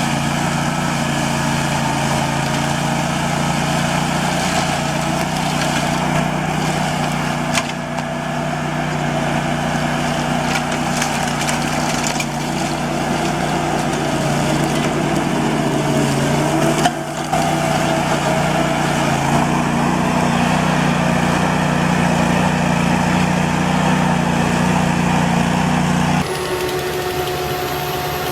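Heavy farm machine's engine running steadily under load, with a couple of brief knocks. Near the end it cuts abruptly to a different machine's steady hum with a high whine.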